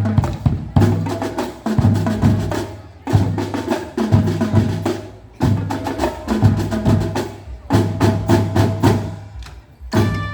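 Marching band playing: sharp, rhythmic drum and percussion hits over sustained low pitched notes. Near the end, clear ringing bell-like notes come in.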